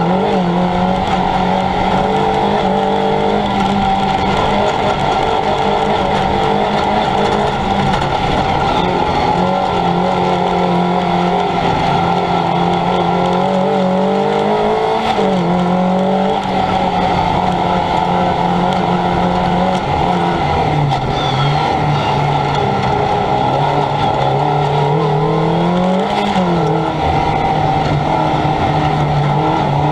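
Fiat Punto's engine running hard under sustained load, heard on board, over steady road and wind noise. Its pitch climbs and then drops sharply twice, about halfway through and again near the end, as it shifts gear.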